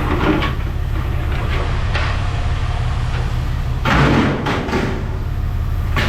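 Several knocks and a louder clatter about four seconds in, over a steady low mechanical rumble.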